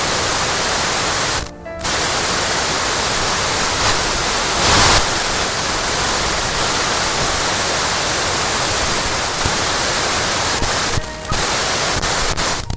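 Television tuning static: a steady hiss between channels, cut by short dropouts about one and a half and eleven seconds in as the tuner switches, with a brief louder surge of noise about five seconds in.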